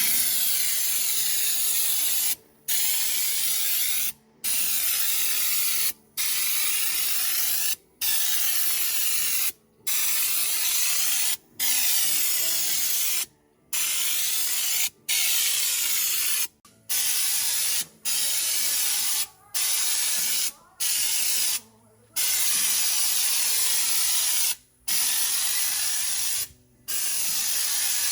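Air-powered spray gun spraying truck bed liner, a loud hiss in repeated bursts of one to two seconds with short breaks between them, some fifteen passes in a row.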